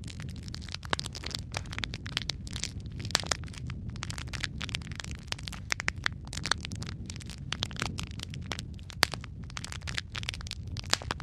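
Wood fire burning in a fireplace: a steady low rumble of flames with frequent irregular crackles and pops, one sharper pop about nine seconds in.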